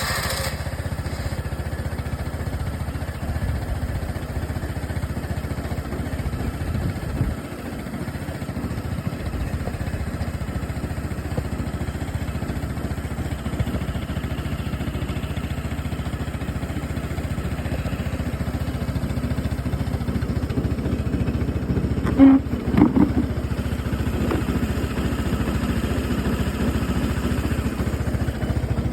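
2010 Vespa LX 150 scooter's single-cylinder four-stroke engine idling steadily just after starting. About two-thirds of the way through there is a brief louder burst.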